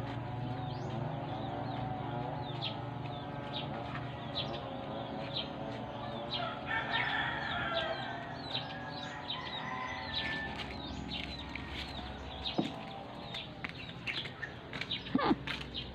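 Birds calling: a steady run of short high chirps, with longer wavering calls in the first half and a louder call dropping in pitch near the end.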